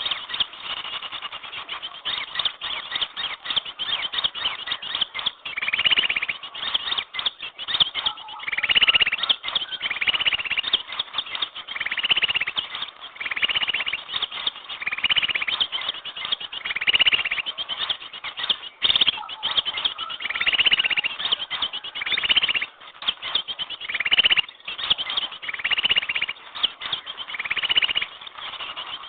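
A bird-lure recording for small birds: rapid ticking chatter throughout, with short twittering chirps repeating about every one and a half seconds. It sounds muffled, with the high end cut off.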